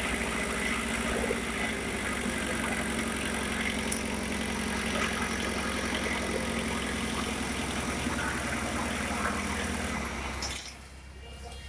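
Diesel engine idling steadily with a light rattle, running normally after its fuel system has been bled of air. The sound stops abruptly near the end, followed by a click.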